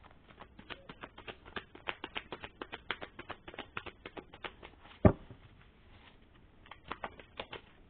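Tarot cards being shuffled: a fast run of soft card flicks for about four seconds, then one loud thump, and a few more flicks near the end.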